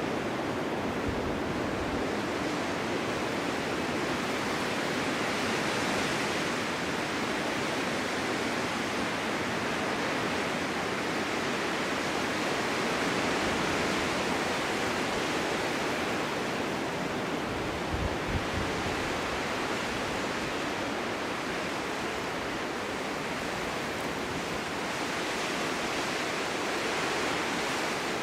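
Strong winter wind blowing steadily as a snowstorm, with gentle swells and lulls and a couple of brief low buffets on the microphone.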